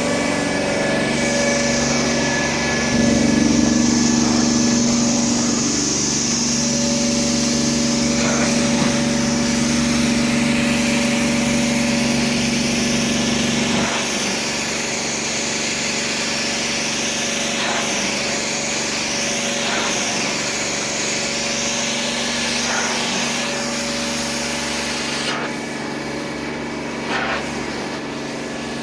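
Hydramaster Boxxer 421 truck-mount carpet extractor running steadily, its engine and vacuum blower humming under a high rush of suction air that wavers back and forth with the cleaning wand's strokes. The high rush drops away about 25 seconds in.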